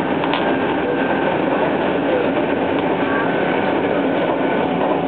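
Hanshin 1000 series electric train running at speed, heard from inside the passenger car: a steady rumble of wheels on rail, with faint steady whining tones above it.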